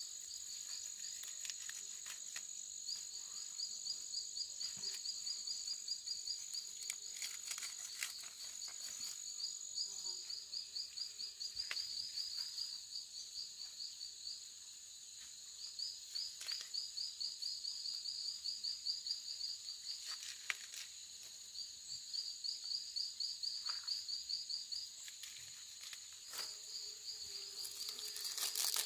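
Insects calling: a steady high-pitched whine runs under bouts of rapid, even chirping pulses that start and stop every few seconds. A few scattered clicks sound among them.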